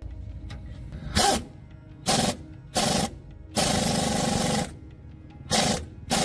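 Six bursts of loud hissing noise, most lasting a fraction of a second and one about a second long, over quieter background music.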